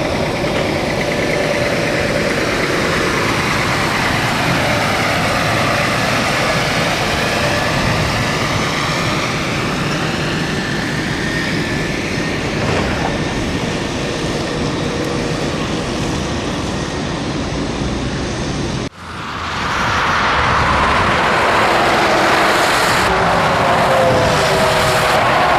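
A Scania truck on the road: loud, steady engine and tyre noise whose pitch glides up and down. It breaks off abruptly about 19 seconds in and resumes with a different, higher set of tones.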